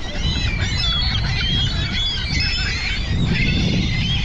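A flock of gulls calling over one another, many short overlapping cries, as the birds crowd back in to be fed. A low rumble runs underneath.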